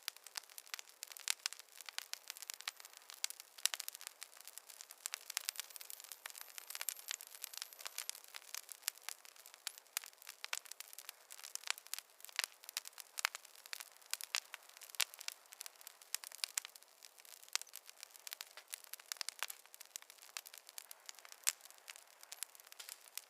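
Fireplace fire crackling: a dense, irregular run of sharp pops and snaps over a soft hiss.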